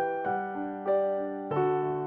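Background piano music: gentle notes and chords played at an unhurried pace, each struck note ringing on.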